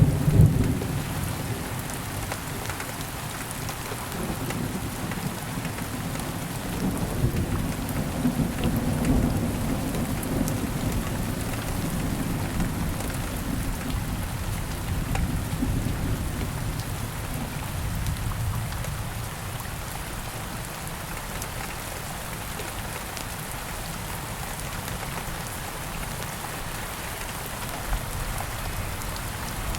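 Steady rain falling, with a rumble of thunder at the start that rolls on more quietly and dies away over the first twenty seconds or so.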